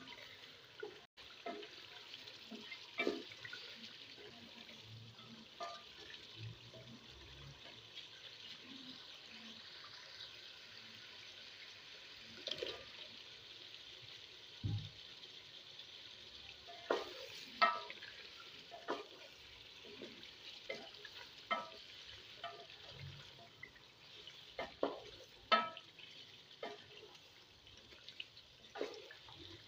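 Chicken curry sizzling steadily in a pot, with a wooden spoon stirring it and knocking against the pot in scattered clicks.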